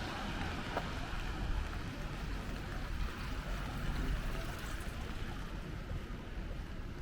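Wet city street ambience in the rain: a steady low traffic rumble under an even hiss of rain and water on the road.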